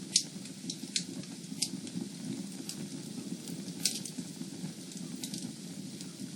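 Wood fire in a fireplace crackling, with a steady low hiss of the flames and irregular sharp pops and snaps, the loudest just after the start and about four seconds in.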